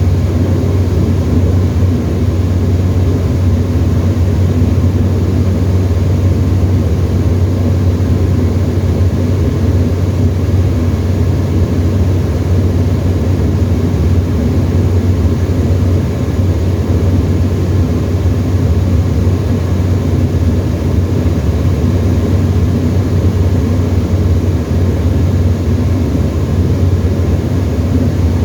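Steady drone of a Tecnam light aircraft's piston engine and propeller, heard from inside the cockpit, with a deep hum and no change in pitch or level.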